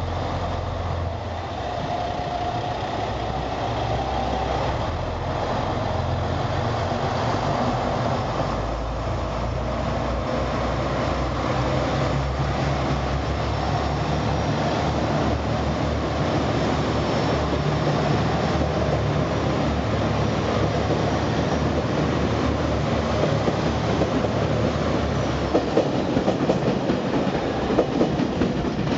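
Anpanman-liveried JR Shikoku diesel train running slowly past, its engines humming steadily. The wheels click over the rail joints, and the clicks come more often near the end.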